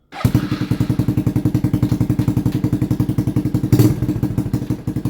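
Honda CRF110 pit bike's small single-cylinder four-stroke engine running at idle through a newly fitted aftermarket exhaust, with quick, even exhaust pulses and a brief louder burst about four seconds in.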